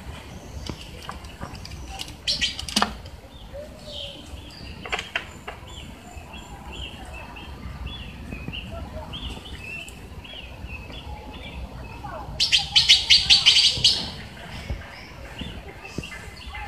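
Small birds chirping over and over, with a rapid rattling run of calls about two seconds in and a longer, louder one about twelve seconds in. A steady low rumble sits underneath.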